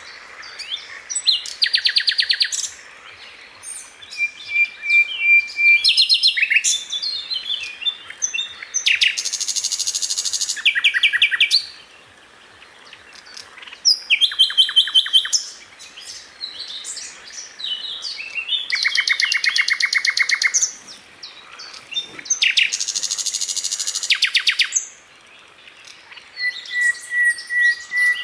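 Sikatan Londo flycatcher singing a fast, dense song: bursts of rapid rattling trills lasting one to two seconds each, alternating with short varied chirps and a few held whistled notes, with brief pauses between phrases.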